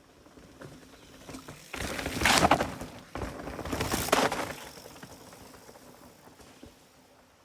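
Mountain bike rolling and rattling down a muddy, rough trail, with two loud rushes of crackling noise about two and four seconds in that fade away afterwards.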